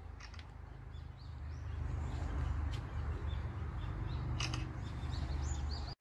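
Small birds chirping with short, high calls, scattered through and busier towards the end, over a low steady rumble that swells after the first second. There are a couple of faint clicks.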